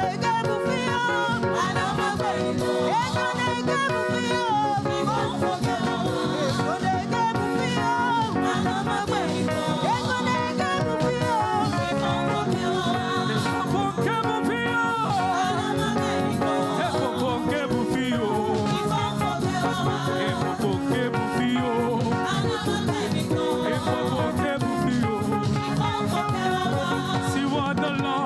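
Live church praise music: a choir and band playing an upbeat dance song with singing over it.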